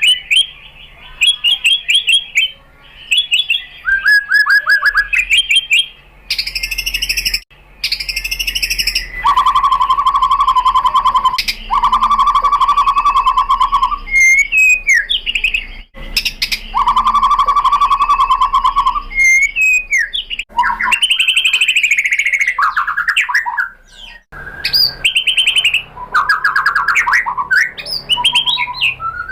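White-rumped shama singing a loud, varied song of quick whistled notes and chattering phrases, with three long, fast trills in the middle.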